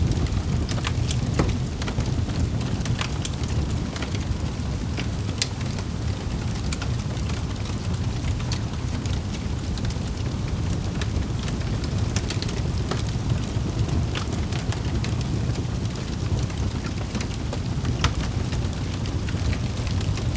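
Wood fire crackling in a fireplace: irregular sharp pops and snaps over a steady low rumbling noise.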